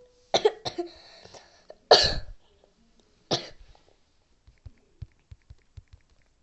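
A person coughing a few times in short, sharp bursts; the loudest comes about two seconds in, then one more about a second later.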